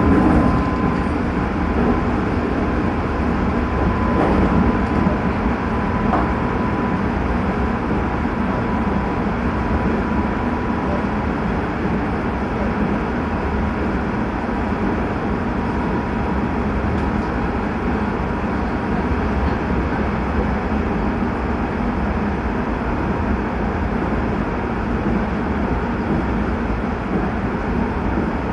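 Hanshin 9000 series electric train with Mitsubishi GTO inverter control running at speed: steady rumble of wheels on rail, with a faint high steady tone that slowly fades away.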